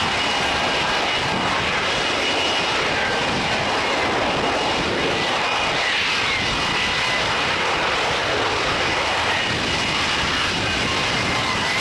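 Aircraft engine noise from a display aircraft: a steady, loud rush with a faint high whine that drifts in pitch.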